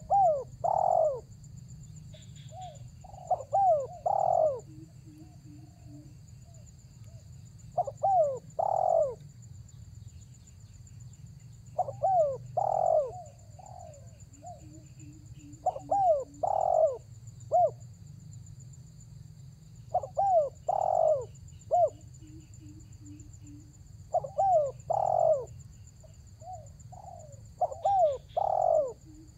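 Spotted dove (tekukur) cooing: a loud phrase of a few short, bending coos repeated about every four seconds, seven times in all. It is the male's calling song aimed at rival doves.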